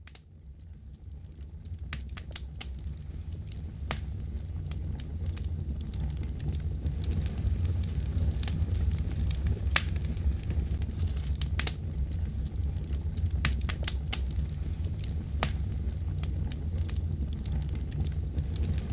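Fire crackling: a steady low rumble with irregular sharp pops and snaps, fading in over the first few seconds.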